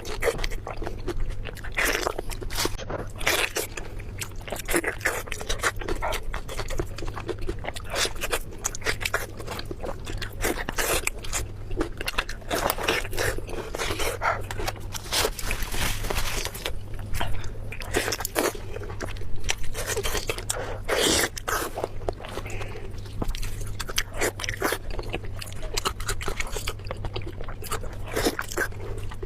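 A person eating close to the microphone: continuous biting and chewing, with many short crunches and wet smacking mouth sounds. A low steady hum runs underneath.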